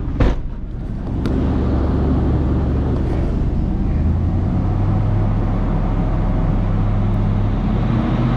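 Lexus LX470's 4.7-litre V8 idling steadily, running smooth, after a sharp click a quarter second in.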